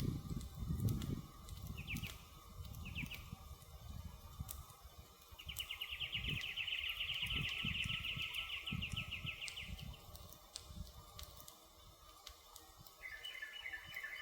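Campfire crackling with scattered sharp pops and uneven low rumbling surges of flame. Over it a high-pitched wild call chirps twice, then gives one long rapid trill lasting about four seconds, and starts another pulsing call near the end.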